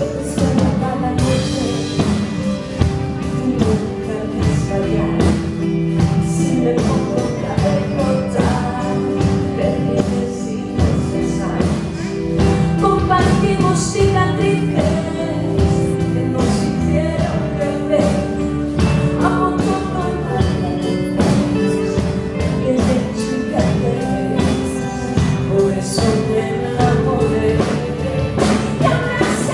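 Live pop band with drums playing while a woman sings, at a sound check.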